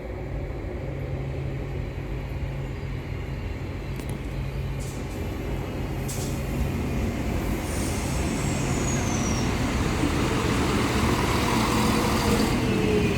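A passenger train approaching along the platform: a steady low hum that slowly grows louder, with a high whine sliding down about eight seconds in and lower tones gliding down near the end.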